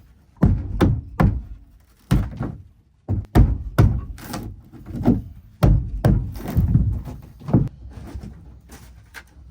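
A series of dull knocks and thuds, about a dozen at irregular intervals, from work on the rotten wood core inside a fibreglass boat hull. They thin out and grow fainter in the last couple of seconds.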